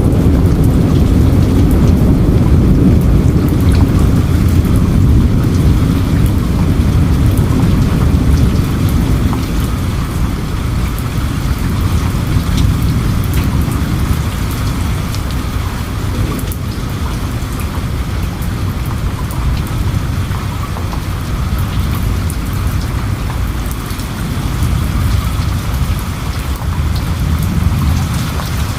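Steady heavy rain with many separate drops ticking, under a low rumble of distant thunder that is strongest at first and eases off after about ten seconds.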